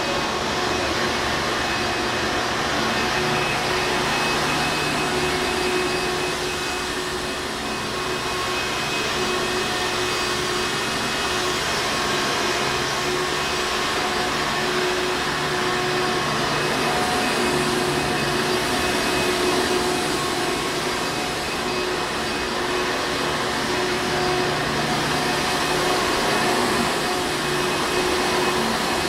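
Hoover Encore Supreme upright vacuum cleaner running steadily, a continuous rushing motor-and-airflow noise with a faint steady hum and only slight swells in level.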